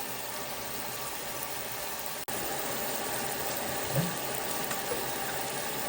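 Steady rush of running water, with a brief cut-out a little over two seconds in.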